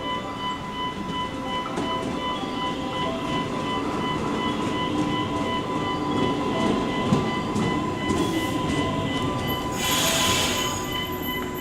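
JR West 115 series electric train pulling into a station, its wheels rumbling and clicking over rail joints, the rumble swelling and then easing. A burst of hiss comes about ten seconds in.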